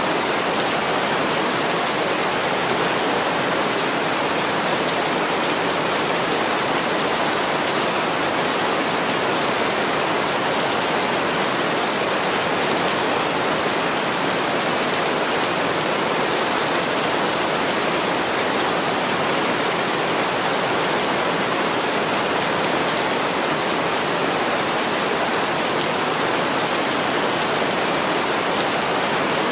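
Heavy rain pouring on a window, a dense, steady hiss without separate drops or breaks.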